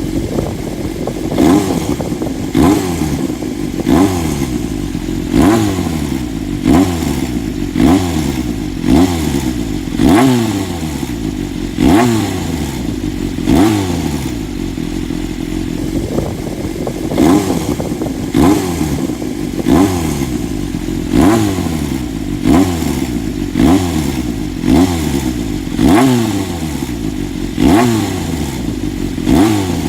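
Honda CBX400F air-cooled inline-four running through a pre-regulation RPM exhaust at low revs, its throttle blipped briefly about every second or so, each time rising and dropping back, with a pause of a few seconds midway. Among the low-rev sound the owner has found an abnormal engine noise, which he links to the tensioner.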